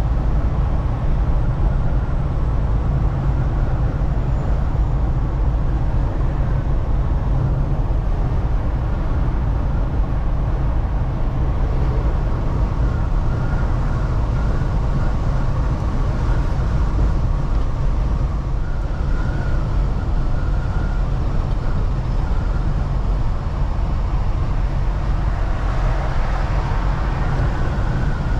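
Semi truck's diesel engine and road noise heard from inside the cab while driving: a steady, low, even rumble.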